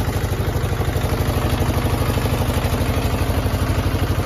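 An engine running steadily at idle, with a fast, even low pulse of about a dozen beats a second.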